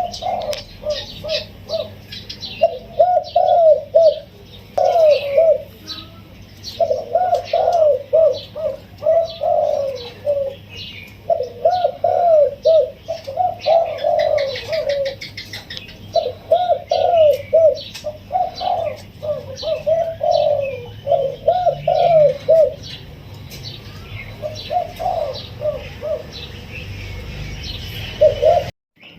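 Spotted dove cooing in repeated soft phrases, each a quick run of rounded notes with short pauses between, the phrases growing sparser near the end. Small birds chirp high and fast throughout.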